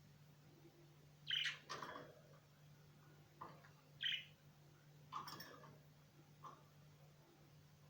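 Small birds chirping: about six short, separate chirps at irregular intervals, over a faint low steady hum.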